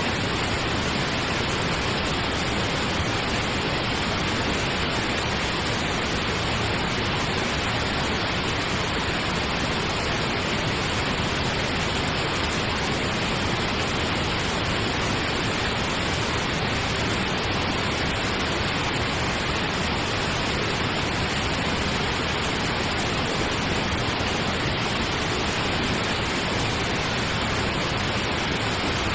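Steady pink noise: an even, unchanging hiss spread across the whole range, without rhythm or breaks.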